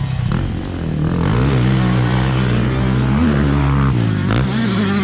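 Dirt bike engine running under changing throttle. Its pitch steps up early on, drops back twice and rises again near the end.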